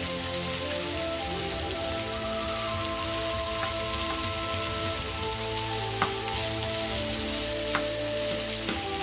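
Pork bulgogi and onions sizzling steadily in a frying pan as they are stirred. A few sharp taps of the utensil on the pan break through, the loudest about six seconds in.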